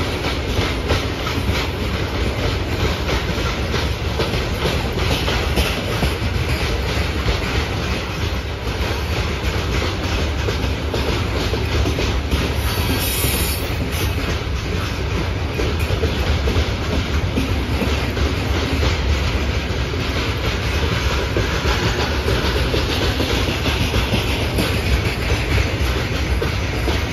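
Freight train wagons rolling past: wheels clicking over rail joints in a steady, rapid clatter over a continuous low rumble.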